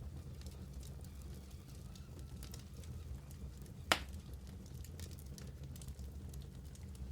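Wood fire burning in a fireplace: a steady low rumble of flames with scattered small crackles, and one loud sharp pop about four seconds in.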